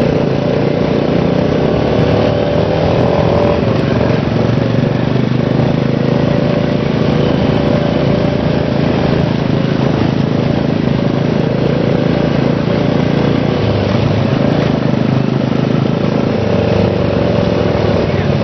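Dirt bike engine running steadily while riding, its pitch rising and falling a little with the throttle.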